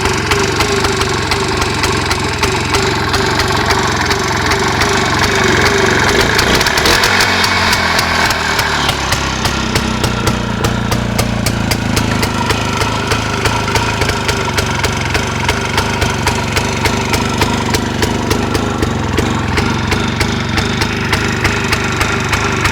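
Minsk motorcycle fitted with a Tula Muravey two-stroke engine, running steadily with an even firing beat. It gets briefly louder and shifts pitch about six to nine seconds in, then settles back.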